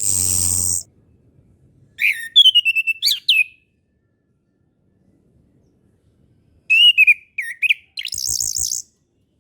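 Chestnut-capped thrush (anis kembang) singing: short phrases of quick whistled notes that slide up and down, with pauses between, opened and closed by harsh buzzy bursts, at the start and again near the end.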